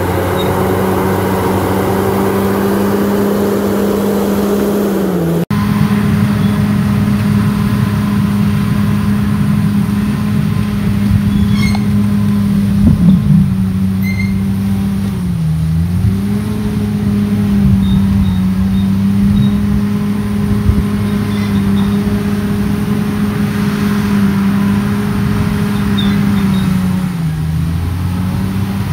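Crawler bulldozer's diesel engine running steadily, its pitch sagging briefly three times as it takes on load and recovering. A few knocks near the middle.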